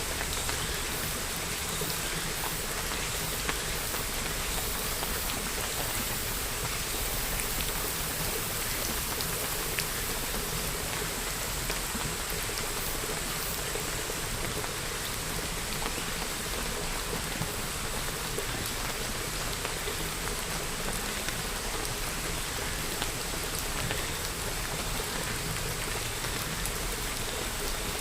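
Steady rainfall: an even hiss of rain with many individual drops pattering on surfaces.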